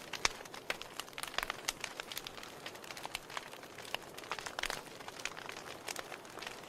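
Wood fire crackling in a fireplace: irregular sharp pops and snaps over a soft steady hiss of burning logs.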